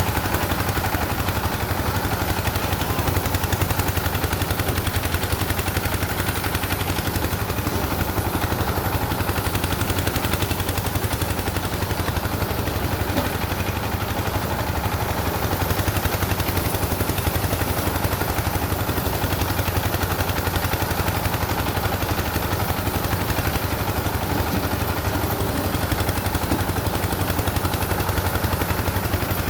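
An engine running steadily, with a fast, even chugging that does not change.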